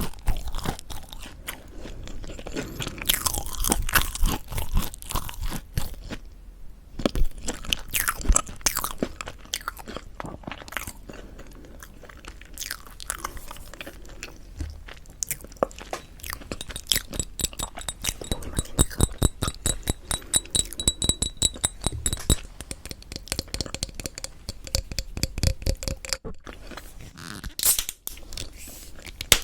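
Crispy mocha bread being bitten and chewed close to the microphone: dense, irregular crackly crunches with wetter chewing between bites, and a brief pause about seven seconds in.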